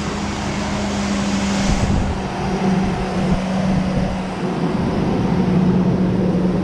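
Chevrolet Tahoe V8 engine idling steadily just after a tune-up with new spark plugs and wires, with a constant hum. A higher hiss fades out about two seconds in.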